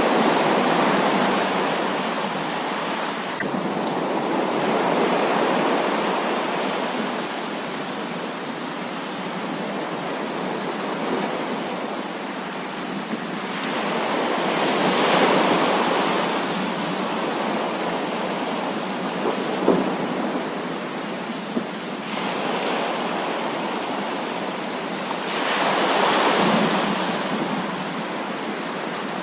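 Heavy rain falling steadily, with rolling thunder swelling and fading about four times. There is a brief sharp crack about two-thirds of the way through.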